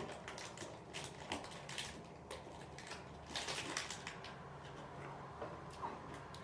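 Faint, irregular crackling and crunching as a Pop-Tart and its wrapper are handled, with a short busier spell about halfway through.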